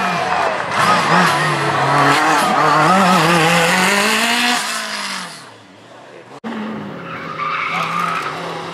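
Group B rally car engine revving hard, its pitch rising and falling through the gears, with tyres skidding. It fades away about five seconds in, then after an abrupt break a second car's engine comes in, quieter, rising in pitch near the end.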